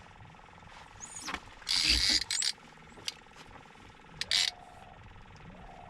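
Heavy fishing reel's drag clicking out line under a hooked bull shark: short rasping ratchet-like bursts, the longest about two seconds in and a brief one just past four seconds.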